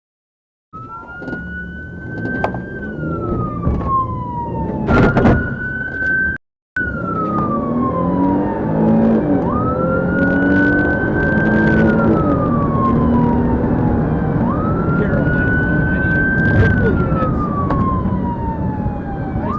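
Police siren wailing: a tone that rises quickly, holds and then falls slowly, repeating about every five seconds, over steady vehicle rumble and scattered knocks. The sound drops out completely twice, briefly, near the start and about six seconds in.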